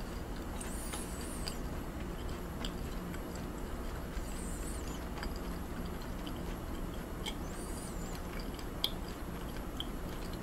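Close-up chewing of raw beef yukhoe: soft wet mouth clicks and smacks, with a faint high chirp every few seconds, over a steady low hum.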